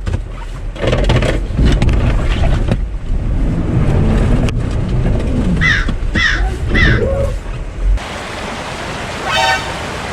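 Off-road vehicle's engine working hard as it tries to climb over rocks, a heavy low rumble with surges. About six seconds in come three short, sharply falling high cries. About eight seconds in the rumble stops abruptly, replaced by a steady hiss.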